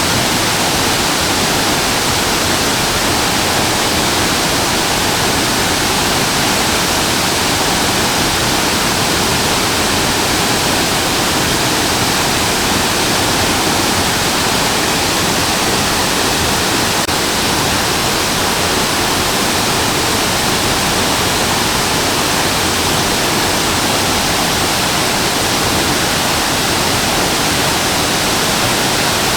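Waterfall, a steady loud rush of falling water with no breaks or changes.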